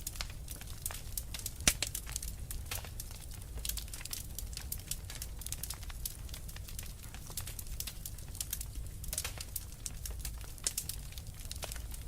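Fireplace fire crackling: irregular sharp pops and snaps over a low steady rumble, with one louder pop near two seconds in.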